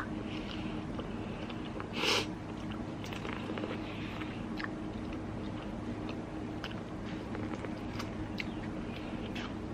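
Close-up eating sounds: chewing and small mouth clicks and smacks while eating seafood boil, with one louder short sound about two seconds in. A steady low hum runs underneath.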